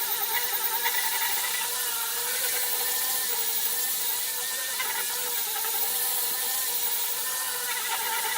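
Electric power tool running steadily with a whirring whine that wavers slightly in pitch over a hiss.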